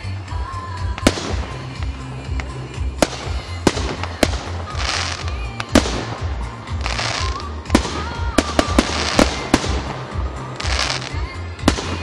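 Fireworks display: sharp bangs of shells bursting at irregular intervals, several in quick succession about two-thirds of the way through, with spells of hissing crackle between them.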